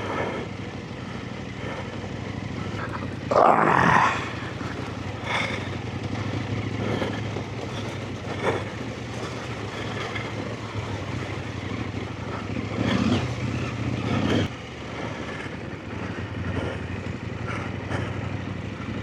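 Adventure motorcycle engine running steadily at low speed along a rough trail lane, with a brief louder surge of noise about three and a half seconds in and another shorter one around thirteen seconds.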